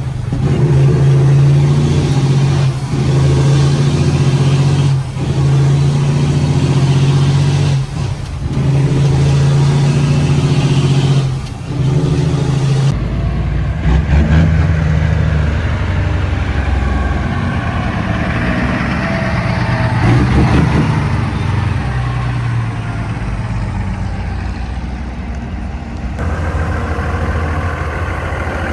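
Heavy truck's diesel engine running loud and being revved, with the pitch dipping briefly every few seconds, then a deeper running sound with some rising and falling revs.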